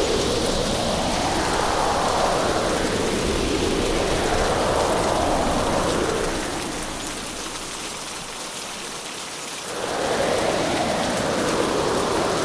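Heavy hurricane rain, a dense steady hiss that surges and eases every couple of seconds. Past the middle it falls away for about three seconds, then comes back at full strength.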